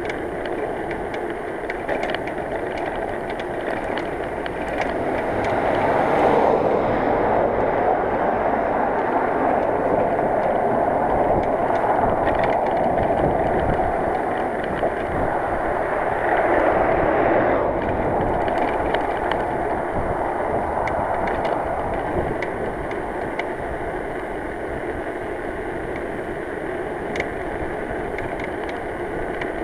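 Bicycle on the move: a steady rush of wind and tyre noise, swelling for a while about a fifth of the way in, with scattered clicks and clanking from the rear hub, whose bearings need repacking.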